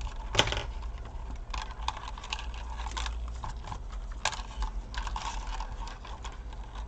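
Irregular small clicks and taps of plastic laptop parts and ribbon-cable connectors being handled and pressed into place during reassembly, with a sharper click about half a second in and another about four seconds in, over a steady low hum.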